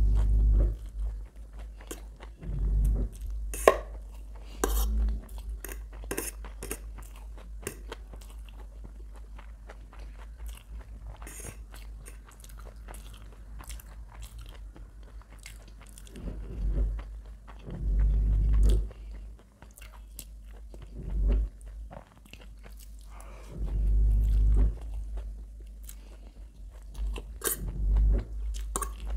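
Close-miked chewing of a mouthful of chow mein noodles with shredded cabbage: wet mouth clicks and smacking, with a light crunch. Several louder, deeper spells of chewing come every few seconds.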